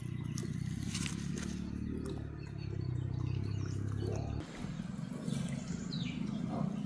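Outdoor ambience: a steady low rumble that cuts off suddenly about four seconds in, then birds chirping with short falling calls near the end.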